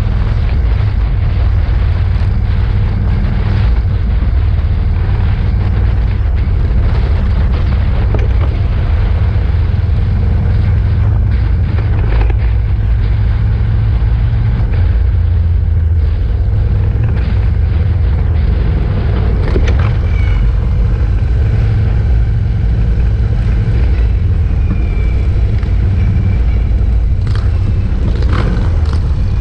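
Many motorcycle engines rumbling together in a steady, loud, deep drone, with a few brief clicks and pops over it.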